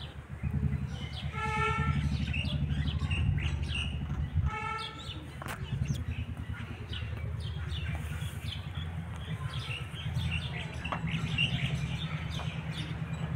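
Small birds chirping over a steady low hum, with two short honking tones about one and a half and four and a half seconds in.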